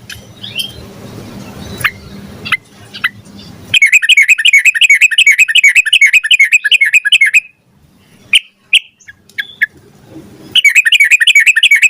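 Yellow-vented bulbul (trucukan) singing. A few scattered single chirps over a low rumble give way to a long, fast run of repeated notes, about seven a second, lasting some three and a half seconds. After a few more single chirps, the fast run starts again near the end.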